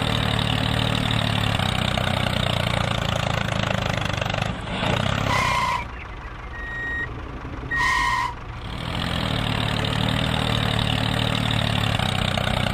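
Tractor engine running steadily with a low hum. It dips about four seconds in, then drops out for a couple of seconds, with two short beeps about two and a half seconds apart, before it runs on again.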